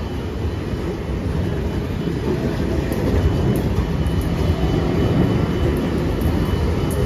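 Shore Line East electric commuter train passing close by, a steady rumble of wheels on the rails that grows slightly louder.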